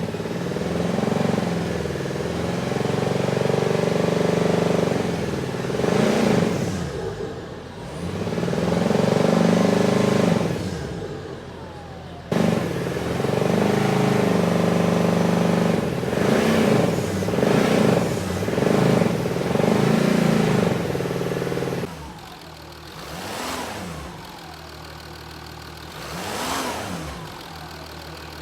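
Jaguar 2.7 TDV6 V6 diesel engine idling and being revved again and again, loud and rough from a failed main bearing, with a vibration that sounds like a loose engine cover. About 22 seconds in it turns much quieter, revved briefly twice: the engine after its rebuild.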